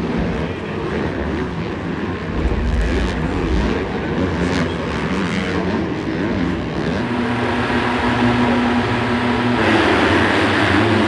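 Racing dirt bike engines running and revving, their pitch shifting up and down; the sound gets louder and fuller near the end.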